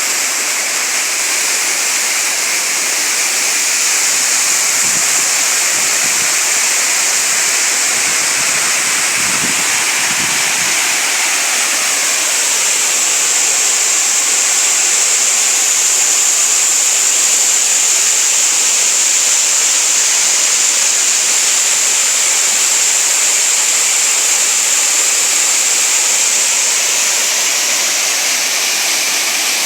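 Waterfall cascading and a stream rushing, a steady hiss of falling water. A brief low rumble comes in about nine seconds in.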